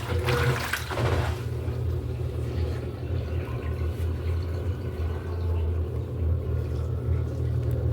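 Electrolux LED14 top-loading washing machine running with a steady low motor hum. A rush of water fades out about a second in, leaving the hum alone.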